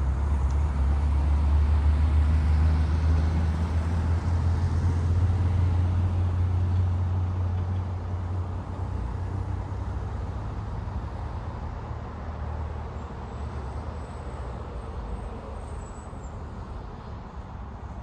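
A road vehicle passing, its low engine and road rumble loudest in the first few seconds, then slowly fading away as it moves off.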